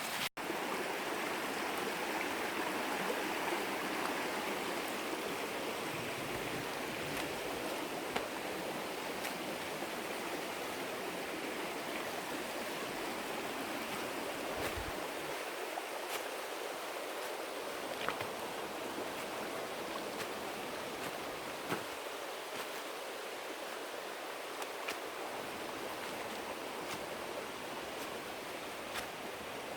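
Steady rush of flowing water, like a forest stream, with a few faint ticks over it.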